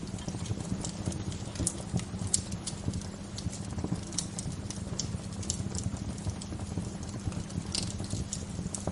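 Wood fire crackling: irregular sharp pops and snaps, several a second, over a steady low rumble and soft hiss.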